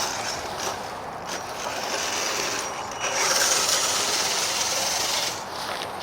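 Radio-controlled scale crawler truck driving over rough ground, its electric motor and gears running under throttle, louder for a couple of seconds from about halfway in.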